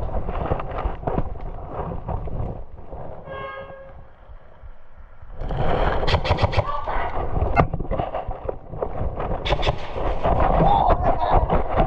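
Wind buffeting the microphone, then from about five and a half seconds in a run of sharp snaps: airsoft guns firing.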